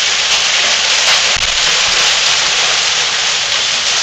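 Hail and heavy rain pelting down in a severe thunderstorm: a loud, steady hiss.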